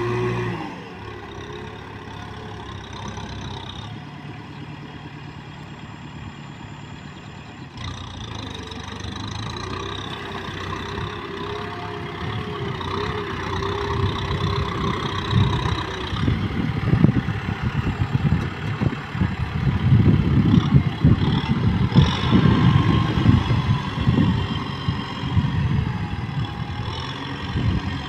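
Kubota M6040 tractor's diesel engine running under load, working muddy ground. It grows louder and rougher about halfway through, with an irregular low pulsing.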